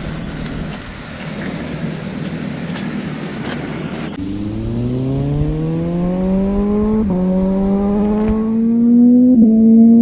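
Sport motorcycle engine accelerating hard. At first there is a rush of wind and road noise. From about four seconds in the engine note climbs steadily, drops sharply about seven seconds in and dips again near the end: quick upshifts, as with a quickshifter.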